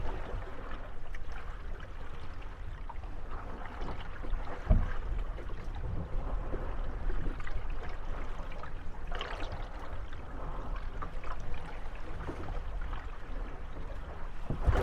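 Water lapping and sloshing against moored gondolas rocking on the waves, with a dull knock of wooden hulls bumping about a third of the way in.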